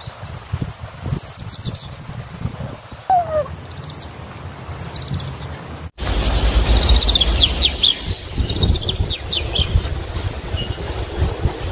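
Small birds chirping and trilling over a low background rumble, with one falling whistled note about three seconds in. The sound breaks off abruptly about six seconds in and resumes with a louder rumble and denser chirping.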